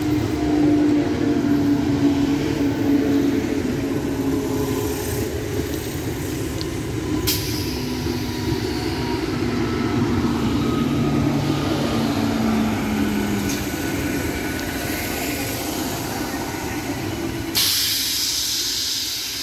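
Eastern Railway ICF EMU local train running past at close range: a steady rumble of wheels on rail, with motor whine that glides slowly down in pitch. Near the end the rumble cuts off suddenly and a loud hiss takes over.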